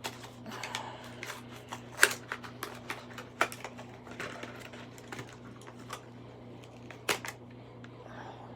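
Irregular clicks and taps of small hard objects being handled, with a louder sharp knock about two seconds in and another about seven seconds in, over a steady low hum.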